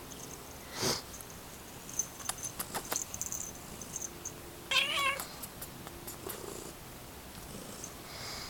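Black house cat purring, with light rustles and clicks, and one short wavering cat call about five seconds in.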